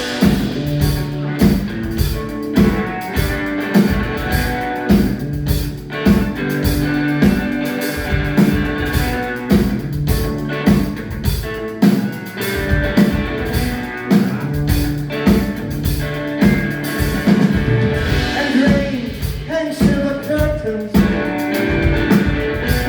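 A blues-punk band playing live: a loud, driving beat of drums under guitar, with a voice singing toward the end.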